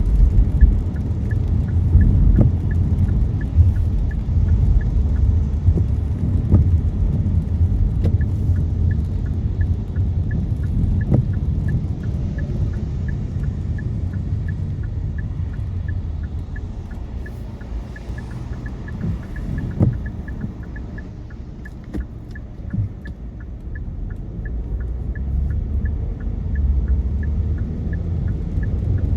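Low rumble of road and engine noise inside a car driving on wet city roads. It eases off in the middle and builds again near the end, with a faint, fast, regular ticking throughout.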